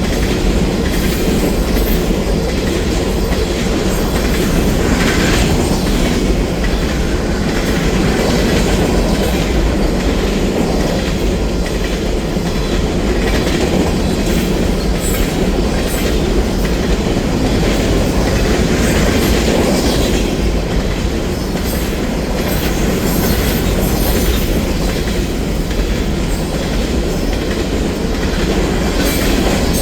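Union Pacific freight train's cars rolling past, with a steady loud clatter of steel wheels on the rails.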